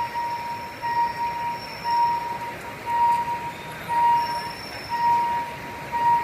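Level-crossing warning signal ringing a single high electronic tone, about once a second, over a steady background rumble.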